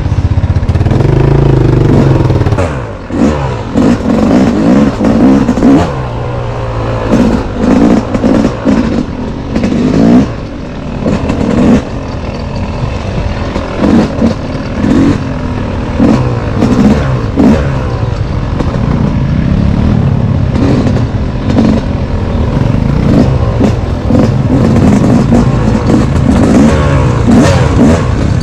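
Off-road motorcycle engine revving up and down again and again while riding.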